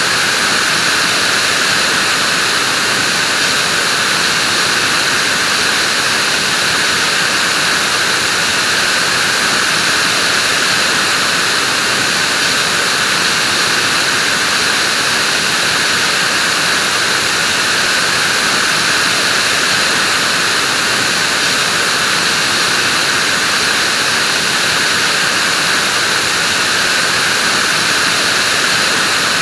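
Vacuum cleaner running steadily, a constant even whooshing hiss of its motor and airflow with no change in pitch or level.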